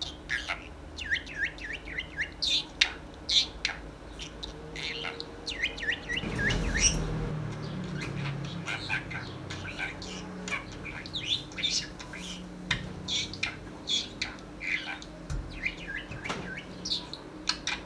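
Small pet parrot chattering: a steady run of quick, high chirps and squeaky warbles, with a brief rustle about six seconds in.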